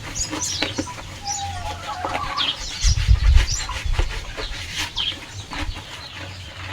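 Chickens calling, a scatter of many short high chirps and peeps. A low rumble comes about three seconds in.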